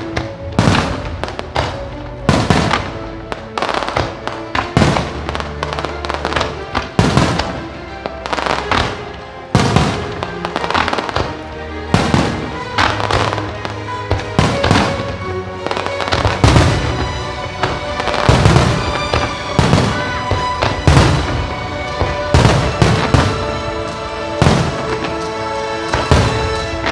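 Fireworks display bursting in a rapid run of bangs over music, the explosions coming thicker and faster in the second half.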